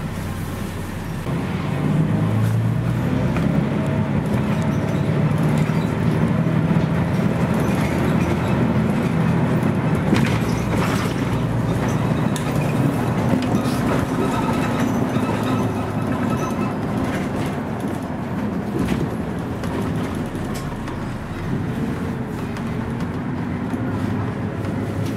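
Scania CN113CLL city bus's Scania DSC 11.71 six-cylinder diesel engine and drivetrain running, heard from inside the bus. It grows louder about a second and a half in as the bus pulls under load, then runs steadily with road and body noise.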